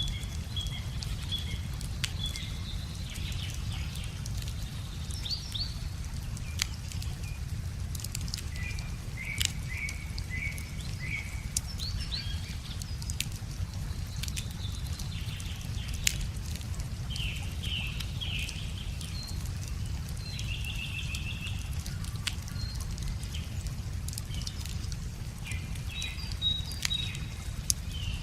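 Wood fire crackling with scattered sharp pops, over a steady low rumble, while small birds sing repeated short chirping phrases.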